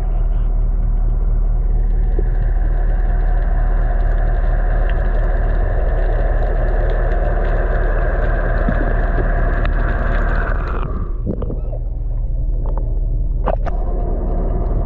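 A boat's engine running steadily under way, with a loud rushing noise over it that drops off sharply about eleven seconds in.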